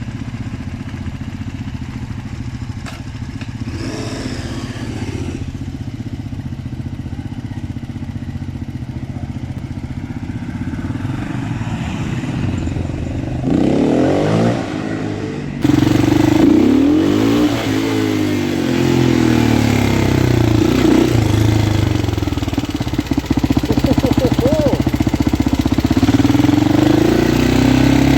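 Husqvarna SM610 motorcycle engine running steadily, then revved a couple of times. About sixteen seconds in the sound jumps louder, with the revs repeatedly rising and falling as the bike accelerates and changes gear.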